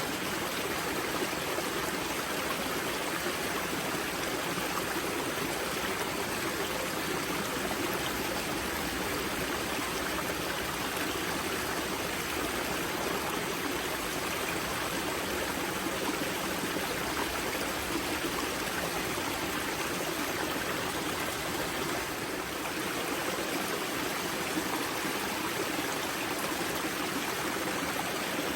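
Spring-fed mountain river at its source, water rushing and gurgling over stones in a steady, even rush.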